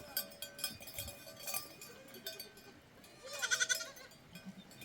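A flock of sheep and goats with bells on. The bells clink and ring, and one animal gives a quavering bleat about three seconds in.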